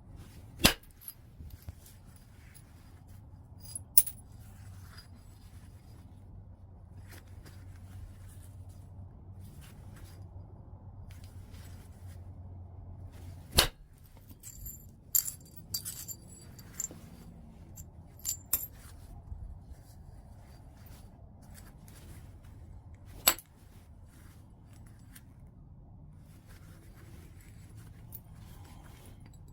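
Knapping strikes on white chert: four sharp clicks spaced several seconds apart, with a cluster of lighter clinks of stone on stone in between.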